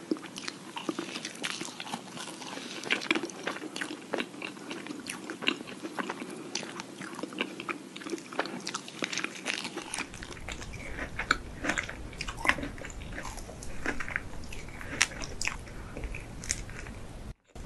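Close-miked biting and chewing of macaron ice cream sandwiches: crisp crunches and crackles from the shells, with soft chewing between. About ten seconds in, it changes to chewing of cream-and-strawberry macarons over a low rumble.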